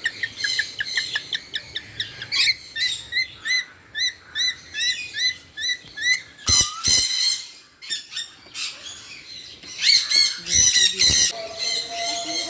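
Birds chirping in short, repeated rising chirps, about three a second, then after a brief lull a louder, denser burst of calls near the end.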